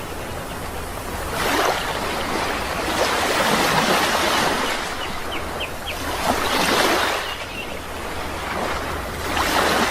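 Sea waves breaking and washing up the shore, a swell every two to three seconds, with a few short bird chirps about halfway through.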